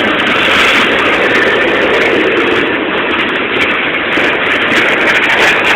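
Freight train tank cars rolling past at close range: steady, loud noise of steel wheels running on the rails.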